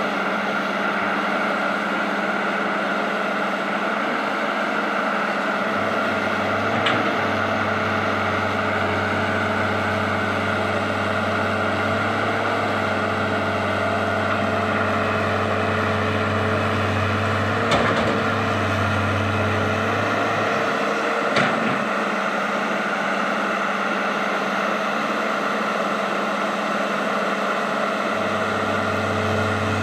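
Heavy machine's engine running steadily, with a deeper low hum that comes and goes and a few short knocks.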